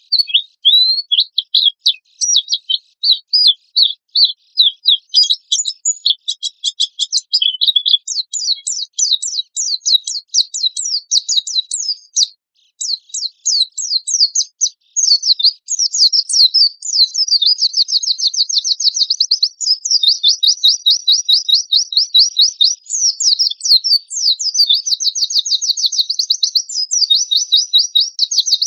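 White-eye (pleci) singing a fast, unbroken stream of high, shrill chirps. Rapid, even trills take over in the second half.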